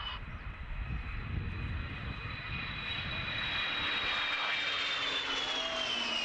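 Jet engines of a large four-engine E-3A AWACS radar plane whining as it flies a slow pass. The whine slides down in pitch from about two-thirds of the way in as the plane goes by.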